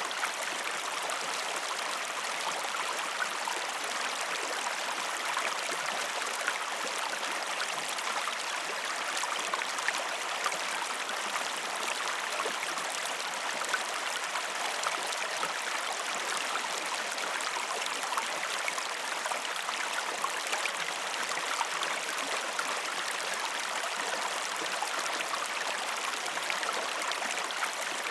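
Waterfall rushing steadily, a continuous splashing hiss of falling water with fine crackling spatter.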